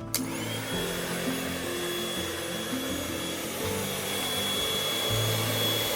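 An air mattress's built-in electric air pump switches on and runs steadily, inflating the mattress: a whirring blower noise with a high whine that rises as the motor spins up. Background music plays underneath.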